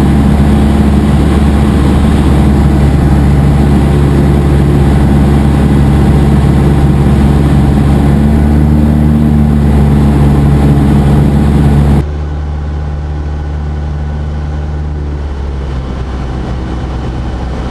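Cessna 172 SP's four-cylinder Lycoming engine and propeller droning steadily, heard inside the cockpit. About twelve seconds in, the sound abruptly becomes quieter and duller.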